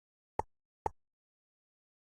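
Two short, sharp clicks about half a second apart: cardboard jigsaw puzzle pieces being set down on the puzzle.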